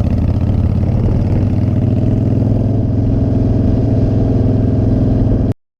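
Motorcycle engine running at a steady, unchanging pitch. The sound cuts off abruptly near the end.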